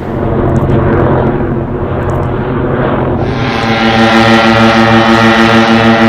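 A light aircraft's engine drones overhead. About three seconds in, a locomotive air horn takes over, sounding a steady, loud chord of several notes.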